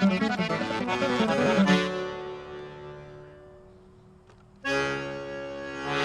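Accordion playing a quick run of notes that ends on a held chord, which fades away. A new chord comes in sharply near the end and swells.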